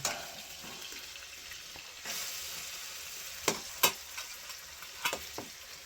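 Food sizzling in a frying pan, a steady hiss that grows a little about two seconds in, with a few sharp clicks of a utensil against the pan in the second half.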